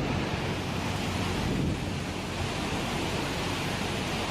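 Steady rushing noise of floodwater, with wind buffeting the microphone.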